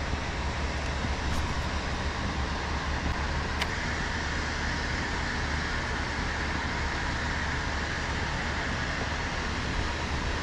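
Steady rushing of river current, with a low rumble underneath and two faint clicks in the first few seconds.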